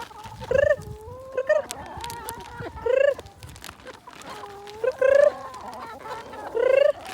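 Chickens clucking and calling, with five louder drawn-out calls, each about half a second long, spaced a second or two apart over softer ongoing clucking.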